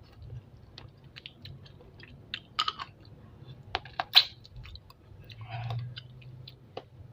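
Close-miked chewing of spicy chicken feet, with irregular sharp wet clicks and crunches as the skin and cartilage are bitten and chewed. The loudest crunches come about two and a half and four seconds in.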